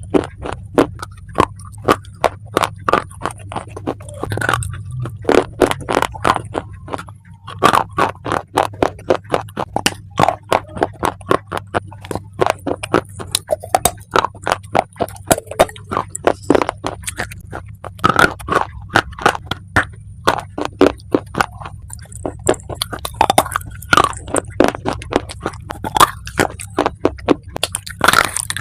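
Dry clay being bitten and chewed close to the microphone: a continuous run of sharp, brittle crunches, several a second, over a low steady hum.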